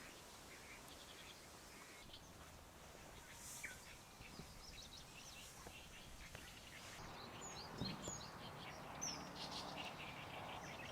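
Faint, scattered bird chirps over a quiet background, with a soft hiss that comes in about seven seconds in.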